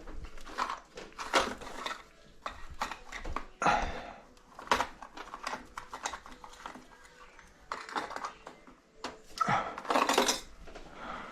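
Small metal hand tools clinking and rattling in irregular clatters and light knocks, while valve clearances are being set with feeler gauges.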